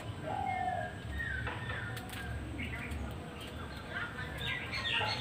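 Birds chirping and calling in short pitched notes over a low steady background rumble.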